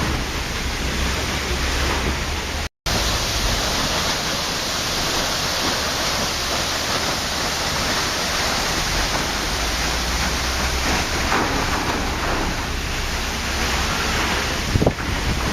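Waterfall: a steady, loud rush of falling water that cuts out completely for a split second about three seconds in, with a brief low thump near the end.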